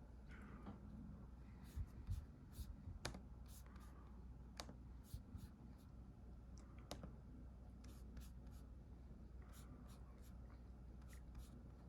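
Faint, irregular clicks and ticks, about a dozen or more, scattered over a steady low hum in a quiet small room.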